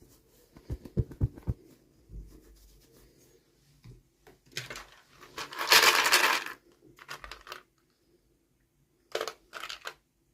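Toy packaging being handled and opened: a few soft knocks, then a loud rustling, tearing burst of about two and a half seconds in the middle, and two short rustles near the end.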